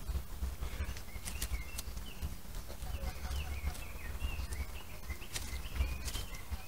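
Small birds chirping repeatedly in short, quick notes, over a low rumble, with a few brief sharp clicks.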